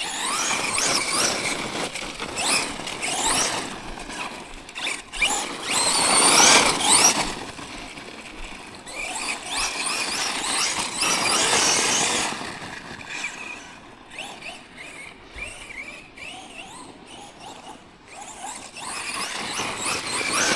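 Electric RC monster truck's motor and drivetrain whining in several bursts of throttle, the pitch rising and falling, over tyre and gravel noise. The drivetrain is running rough because stones have got caught by the drive shaft.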